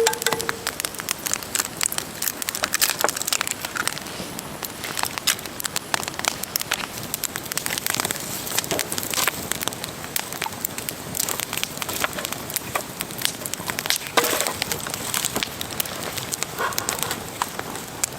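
Campfire crackling and popping in irregular sharp snaps, with a few louder rustles.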